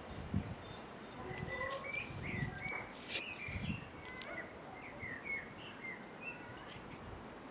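Small birds chirping in short, quick calls, with low rumbling gusts of wind on the microphone. A single sharp click comes about three seconds in.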